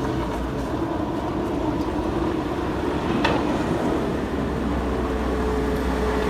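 Steady motor-vehicle running noise, a low rumble and hum with a faint steady tone, with one short sharp click a little past halfway.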